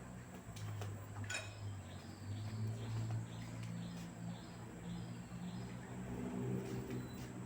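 LG direct-drive washing machine running, a steady low hum, with faint short high chirps repeating over it.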